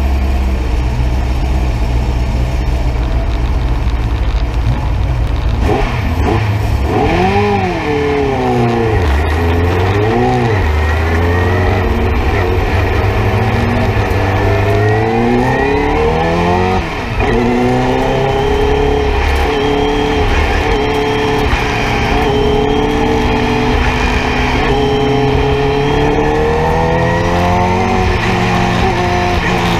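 Nissan Sentra race car's engine heard from inside the cabin: idling at first, revved up and down a few times, then pulling away and accelerating with rising pitch, a brief dip and gear change about halfway through, then climbing again.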